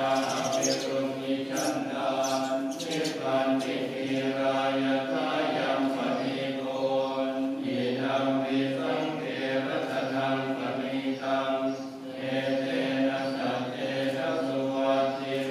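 Buddhist chanting: several voices chant together on a steady low droning pitch, with a short pause for breath about twelve seconds in.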